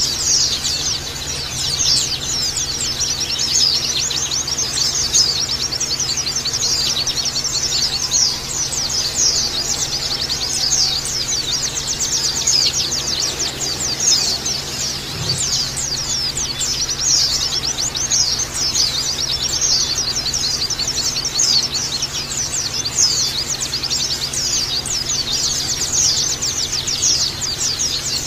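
A flock of white-eyes (pleci, Zosterops) chattering together: a dense, unbroken stream of rapid high chirps and twitters, many birds calling at once.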